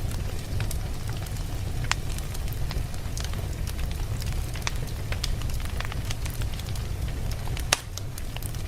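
Wood fire burning with a steady low rumble and scattered sharp crackles and pops, a loud pop near the end.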